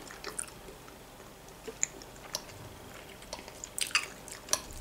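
A person chewing a mouthful of sausage and pasta, with small wet mouth clicks and smacks. Near the end a cluster of light clicks comes as a fork digs into pasta on the plate.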